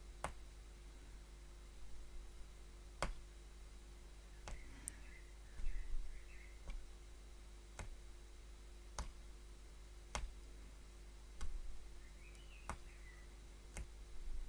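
Punch needle tool stabbing thread through the backing fabric: a faint sharp click with each stroke, roughly one a second.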